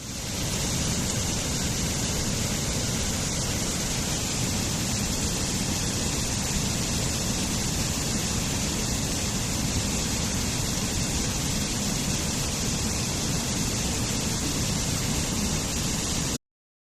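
Waterfall rushing steadily, an even roar of falling water that cuts off suddenly near the end.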